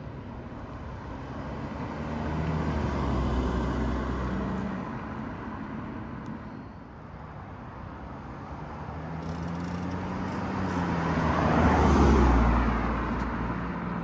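Mercedes-AMG SLC43 roadster's twin-turbo V6 driving by: the engine note swells as it pulls away, fades, then rises in pitch and passes close about twelve seconds in, loudest at that pass.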